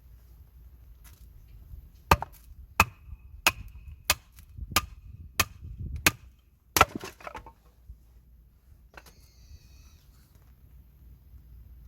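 Firewood being chopped or split for a campfire: about eight sharp, even strikes, roughly one every two-thirds of a second, the last one ragged and splintering.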